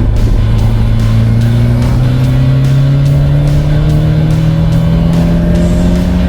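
Turbocharged Mazda Miata's four-cylinder engine pulling under load, its revs climbing slowly and steadily in one gear. Background music plays underneath.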